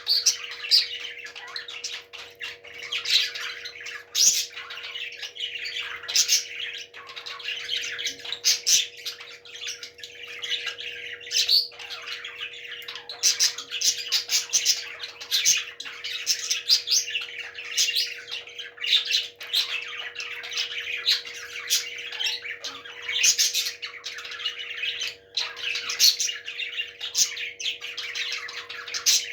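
Parrots squawking and chirping over and over, with dense, overlapping sharp calls. A steady low hum runs underneath.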